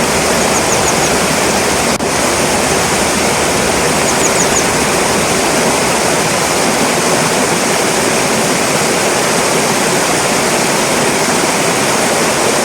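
Rushing water of a fast-flowing stream, loud and steady, with two short bursts of high, quick calls, about four notes each, from a grey wagtail: one near the start and one about four seconds in.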